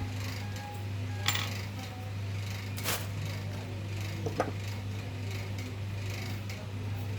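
A few light metallic clinks, three in all, spread over several seconds, over a steady low hum.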